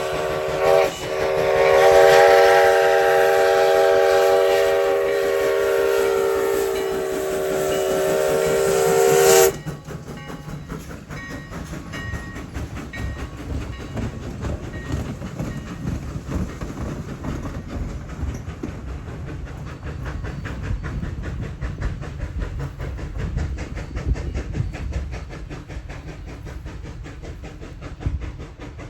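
Steam whistle of 4-6-0 steam locomotive Sierra No. 3, a chord of several notes held long with a brief break about a second in, cutting off sharply after about nine and a half seconds. After that the locomotive and its train are heard running, a low rumble with fast clatter.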